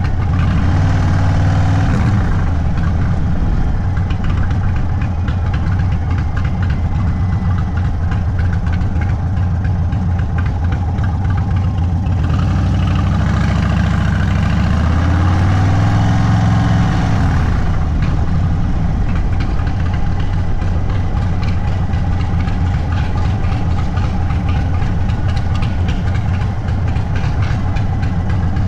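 Indian Sport Chief's V-twin running steadily at low speed through a Sawicki Speed aftermarket exhaust. About twelve seconds in it revs up, the pitch climbing, then drops back to a steady low run by about seventeen seconds.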